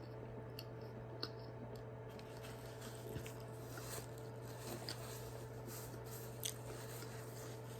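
A person chewing a mouthful of banana toast, quietly, with a few small mouth clicks, over a steady low hum.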